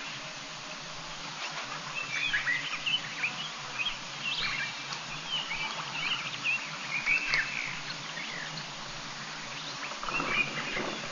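Birds calling in the bush: a run of short chirps and whistles through the middle, with another burst near the end, over a steady background hiss.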